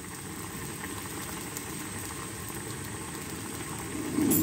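Mutton, tomatoes and freshly added oil bubbling and sizzling hard in a karahi over a high flame, with a steady bubbling hiss. A brief louder low sound comes near the end.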